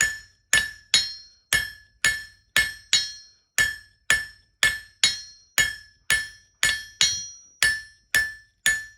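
Blacksmith's hammer striking hot steel bar on an anvil at a steady rhythm of about two blows a second, each blow leaving the anvil ringing, while drawing a point on a forged leaf.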